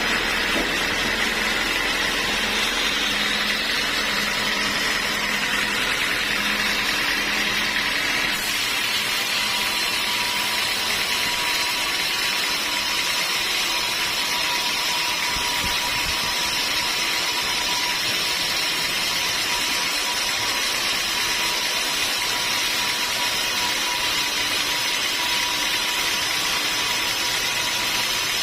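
Sawmill machinery running steadily: a loud, even noise with a steady whine, and a low rumble that drops away about eight seconds in.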